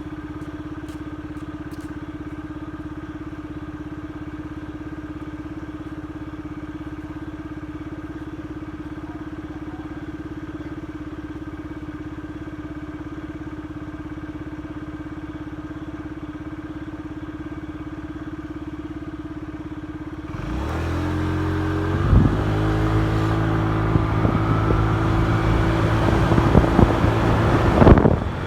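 Motorcycle engine idling steadily for about twenty seconds, then pulling away: the engine note climbs in steps as it works up through the gears, with wind rush over the microphone building near the end.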